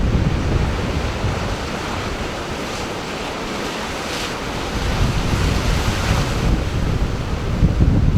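Sea waves washing on the shore, with gusty wind buffeting the microphone. The wind rumble eases for a few seconds in the middle, and a wave's hissing wash swells about four seconds in and again about two seconds later.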